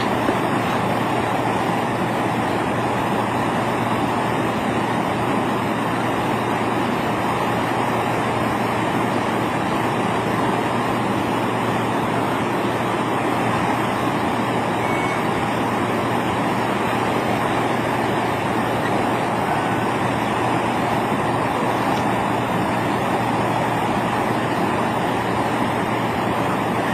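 Steady vehicle engine and road noise from inside the cab of a moving vehicle, an even rushing sound over a constant low hum, unchanging throughout.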